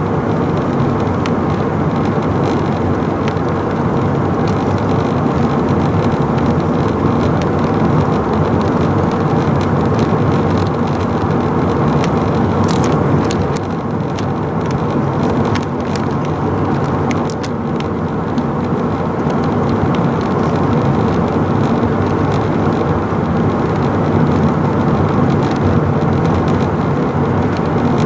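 Steady, loud vehicle noise: an even rumble and rush that holds level throughout, with no build-up or fade of anything passing.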